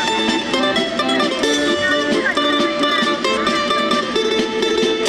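Music played on plucked string instruments, a quick run of short picked notes over a steady accompaniment.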